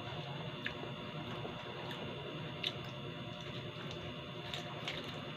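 A person eating: quiet chewing with a few faint clicks, over a steady background hiss.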